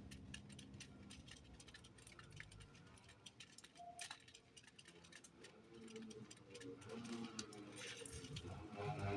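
Small birds at a feeder pecking and picking at seed: many quick, irregular faint clicks and taps, with one short high note about four seconds in.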